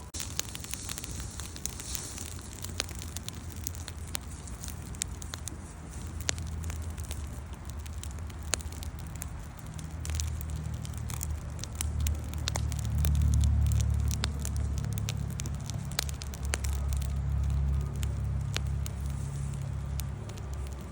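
Wood campfire crackling, with frequent sharp pops scattered irregularly over a low rumble that swells in the second half.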